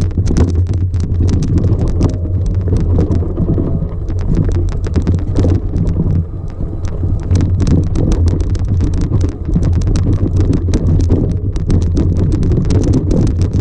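A motor vehicle running with a steady low engine drone while riding over a rough dirt track, with constant rattling and knocking.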